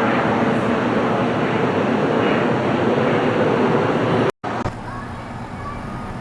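Jet airliner engines, loud and steady, cut off abruptly about four seconds in, followed by a quieter steady background noise.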